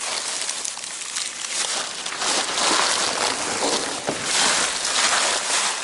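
Trash and plastic bags rustling and crinkling as they are handled, a steady stream of small crackles that grows louder about two seconds in.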